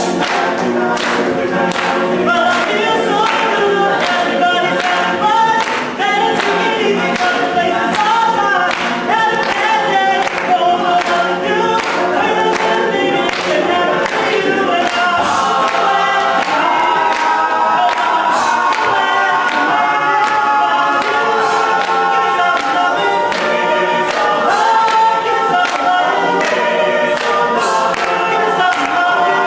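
All-male a cappella group singing in close harmony, with no instruments.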